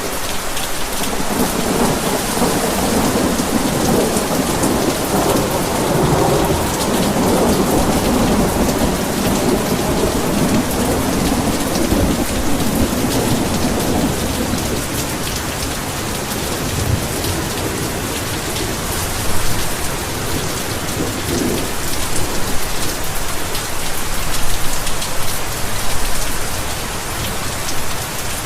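Heavy rain pouring steadily, with a long rolling rumble of thunder that builds in the first seconds and fades out about halfway through.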